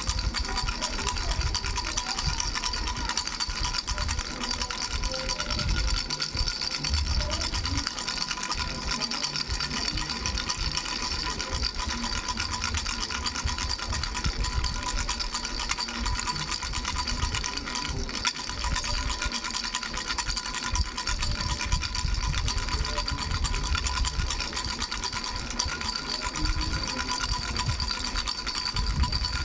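Baby rattle with three bells, shaken fast and without a break, so the rattling and the bells' jingling run together into one continuous sound.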